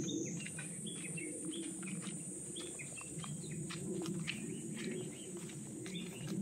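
Small birds chirping: many short calls scattered throughout, over a steady high-pitched whine and a low rumbling haze.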